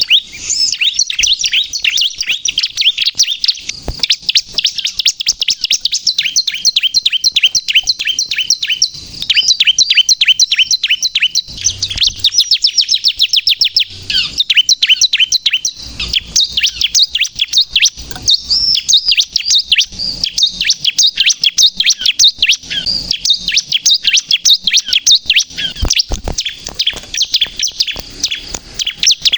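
Bar-winged prinia (ciblek, the pale 'kristal' variant) singing hard and without a break: fast runs of short, high, repeated chirps, with a few faint knocks.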